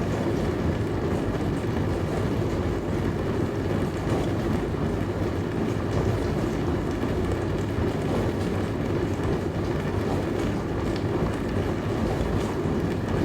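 Dishwasher running: a steady, even hum and rush that does not change.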